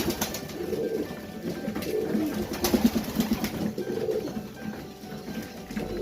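Domestic highflyer pigeons cooing, several overlapping coos repeating about once a second, with a couple of short sharp sounds among them.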